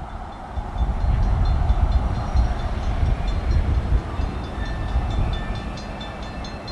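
Union Pacific local freight train rolling slowly across a road crossing, a steady low rumble of wheels and cars, with faint, high, evenly repeated ringing ticks beginning about a second in.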